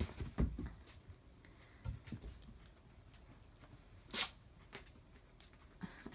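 A dog playing with a cat-teaser wand: a few soft thumps and scuffles in the first two seconds or so, then one short sharp burst of noise about four seconds in, the loudest sound here.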